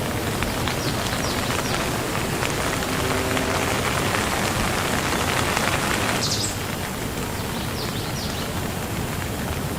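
Steady rain falling, a dense even hiss. About two-thirds of the way through it abruptly becomes a little quieter and thinner.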